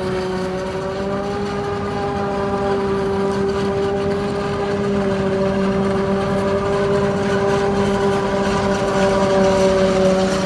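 Claas Jaguar 860 self-propelled forage harvester running under load as it cuts maize, a steady high whine that grows gradually louder as the machine comes closer.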